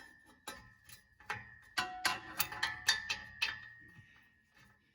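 Irregular metallic clicks and taps, a few a second and thickest in the middle, from a hand wrench being worked and repositioned on a stuck exhaust flange nut.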